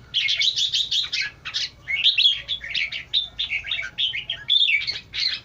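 Red-whiskered bulbuls chirping and chattering in quick, high, overlapping phrases, with short breaks between runs.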